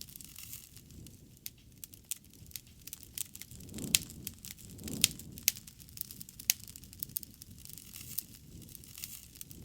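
Wood bonfire crackling: irregular sharp pops and snaps over a soft, low rumble of flame that swells twice near the middle.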